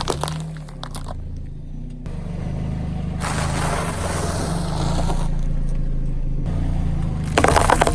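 Car engine running slowly as the car rolls over crunchy snack food, with sharp crackling crunches near the start and again near the end and a rougher scraping hiss in between.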